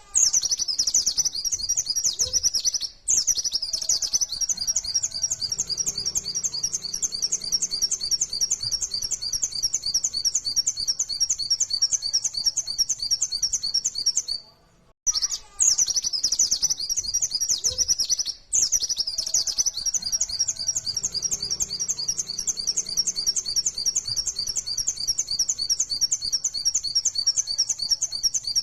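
White-eye (pleci) singing a fast, continuous, high-pitched run of rapidly repeated notes in the 'nembak' (rapid-fire) style used as a lure song. There are brief breaks about 3 s in and just before the halfway point. The second half repeats the first, as a looped recording.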